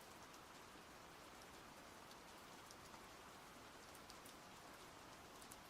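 Light rain falling steadily, a faint even hiss with scattered individual drops ticking close by.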